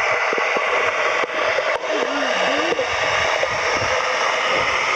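Steady rushing, hissing water in a dog swimming pool, with small splashes from a dog swimming. About two seconds in, a brief faint curving tone sounds.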